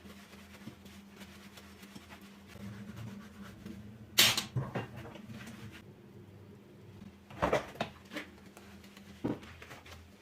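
Household handling noises: a sharp knock about four seconds in and a few smaller clatters later, over a steady low hum.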